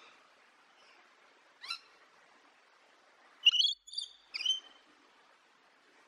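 Bird chirps: a single quick rising chirp, then a short burst of several high-pitched chirps about three and a half seconds in, over a faint hiss.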